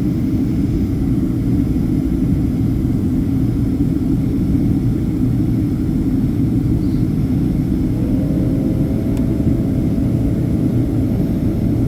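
Steady, deep cabin roar of a Boeing 767-300ER airliner in flight, heard from inside the passenger cabin. About eight seconds in, a faint whine joins it, rising briefly and then holding steady.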